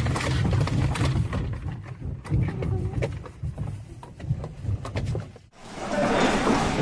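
Deep rumbling with rattling and clattering, typical of a building shaking in an earthquake. It cuts off abruptly about five and a half seconds in, and a noisier scene with voices follows.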